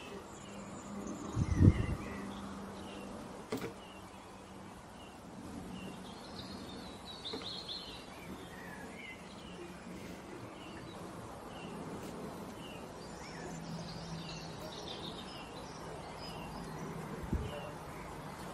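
Small birds chirping over a steady low hum, with a loud low thump about one and a half seconds in and a shorter one near the end.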